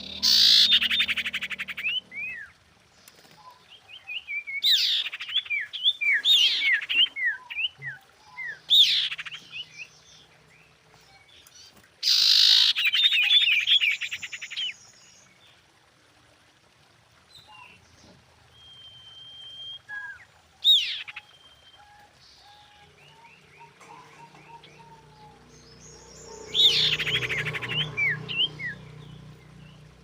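Female common iora calling: loud bursts of rapid chattering, sweeping whistled notes in several separate phrases with pauses between them, and a short steady whistle past the middle.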